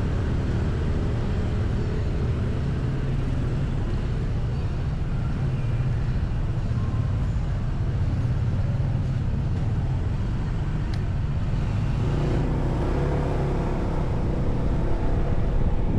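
Motorcycle riding along a road, a steady low engine hum mixed with road and wind noise on the microphone, growing a little louder near the end.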